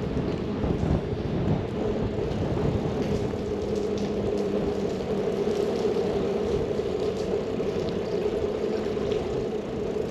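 A steady mechanical rumble with a constant low hum, like an engine running.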